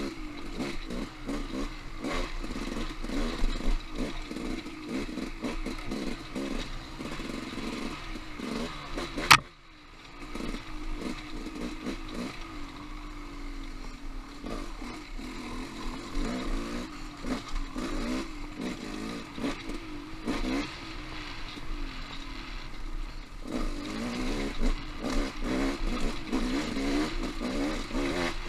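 Off-road motorcycle engine running with the throttle rising and falling, over frequent clattering knocks. About nine seconds in there is a single sharp, loud crack, after which the engine briefly goes quieter before picking up again.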